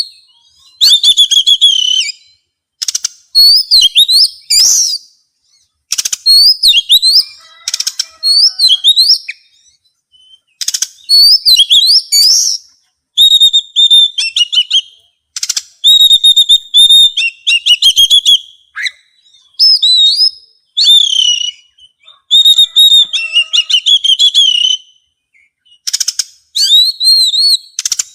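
A songbird singing loud phrases of clear whistled notes, some rising and some falling, mixed with rapid clicking, one to two seconds each with short pauses between.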